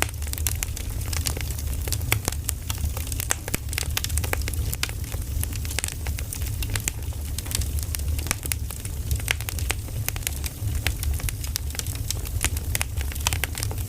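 Firewood burning in an open wood fire, crackling with many irregular sharp pops and snaps over a steady low rumble.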